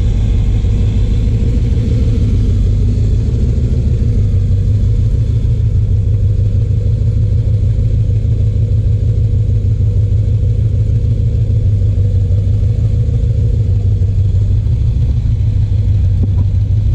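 A car engine idling steadily, a constant low rumble with an even pulse and no revving.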